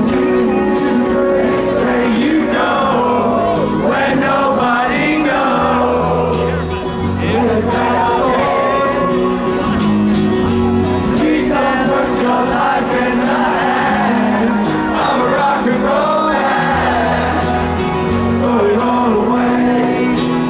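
Rock band music with a singer over bass and drums, possibly played live to a crowd.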